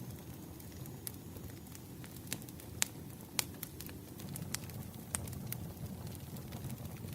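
Wood fire burning: a low steady rumble of flames with sharp, irregular crackles and pops of firewood, the loudest a couple of pops about halfway through.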